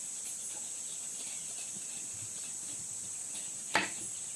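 Steady high-pitched chorus of insects, like crickets, with one sharp knock about three-quarters of the way through.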